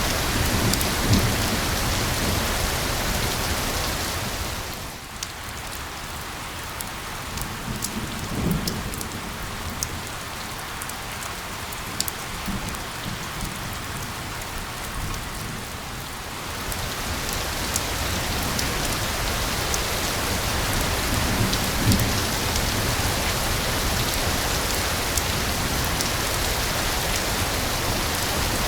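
Steady rain, a dense hiss with sharp ticks of single drops. It grows softer and duller for a stretch from about five seconds in, then comes back up about seventeen seconds in. A few low rumbles swell under it.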